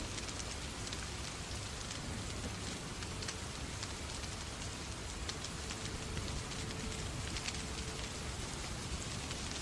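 Steady rain falling, with scattered sharp ticks of drops through it.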